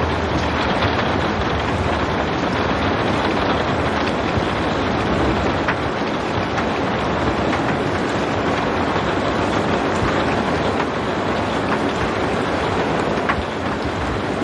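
Steady rainfall: an even hiss with occasional individual drop ticks.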